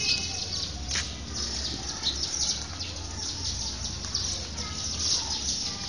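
Birds chirping repeatedly in quick, high calls over a low steady background hum.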